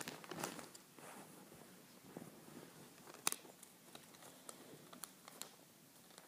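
Faint rustling and creasing of a sheet of paper being folded by hand, with scattered small crackles and one sharper tap about three seconds in.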